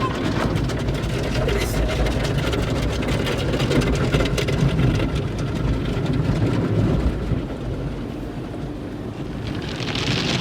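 Automatic car wash heard from inside the car: water spraying and brushes beating on the body and windows over a steady low rumble of the wash machinery. A hissing spray grows louder near the end.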